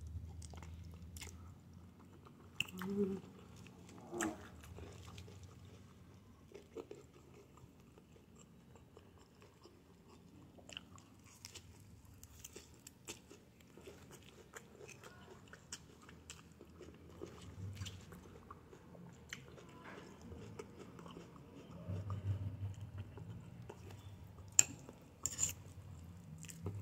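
Close-up chewing and biting of chicken in sauce: soft, wet mouth sounds with a few sharp clicks scattered through, the loudest near the start and again near the end.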